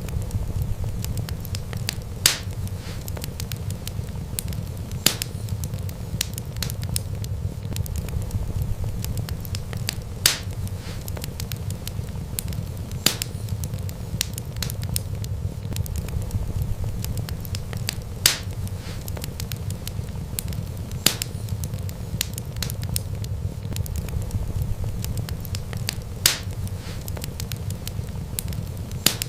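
Wood fire burning: a steady low rumble of flames with sharp pops of crackling wood every few seconds, eight in all. The pops repeat in the same pattern about every eight seconds, like a looped recording.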